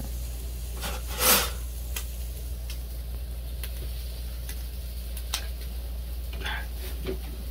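Scattered light clinks and knocks of kitchenware, with one louder clatter about a second in, over a steady low hum.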